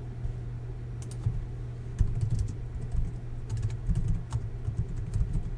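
Typing on a computer keyboard: a run of irregular key clicks, busier in the second half, over a steady low hum.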